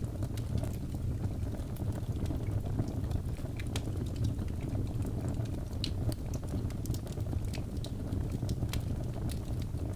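Wood fire burning in a fireplace: a steady low rumble of flames with frequent small, sharp crackles and pops from the burning logs, scattered irregularly.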